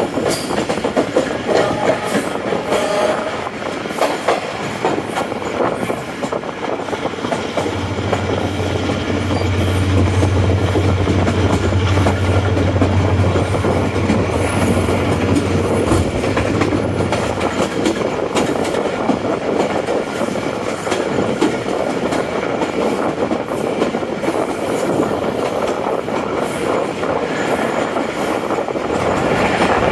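The 15 Up Karachi Express passenger train running along the track, with the steady noise of its wheels on the rails. A low steady hum joins for several seconds partway through.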